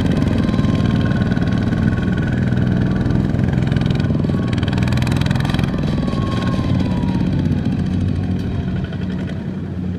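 Small tractor's Kubota single-cylinder diesel engine running steadily, a little quieter near the end.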